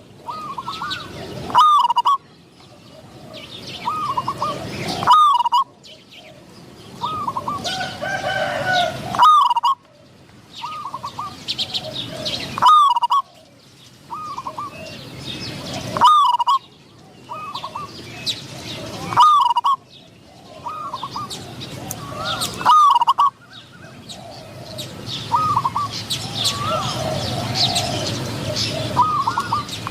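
Spotted doves cooing: the same short, hooked coo phrase comes again about every three and a half seconds. Small birds chirp faintly in between.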